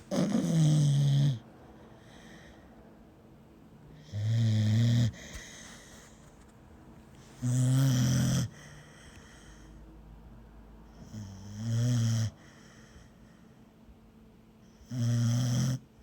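A pit bull snoring: five snores, each about a second long, coming roughly every three and a half to four seconds.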